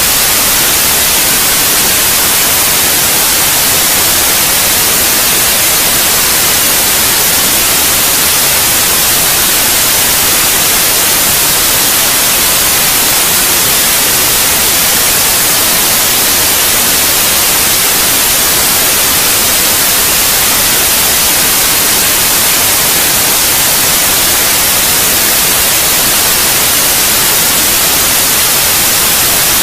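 Steady white noise: a loud, even hiss, brightest in the high frequencies, that never changes.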